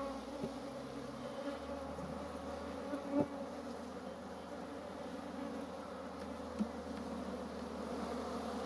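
A honeybee colony buzzing in an open hive, a steady, dense hum, with a few light knocks. The hum is the sound of a strong, populous colony.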